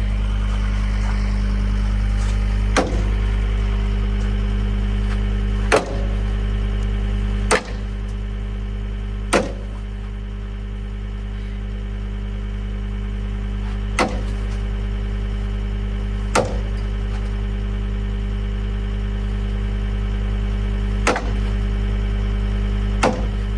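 An engine idling steadily under eight sharp, ringing blows, metal struck hard a few seconds apart, as a stuck bolt is hammered out.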